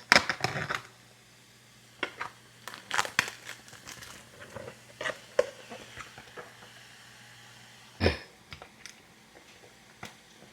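Plastic food packaging crinkling and being torn open, with scattered small handling clicks and one louder knock about eight seconds in.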